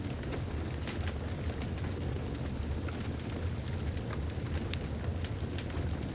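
Wood fire burning in a fireplace: a steady low rumble of flames with scattered crackles and pops, one sharper pop a little under five seconds in.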